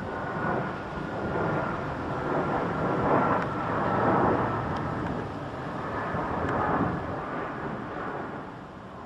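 Distant engine noise: a steady rushing sound with a faint whine slowly falling in pitch.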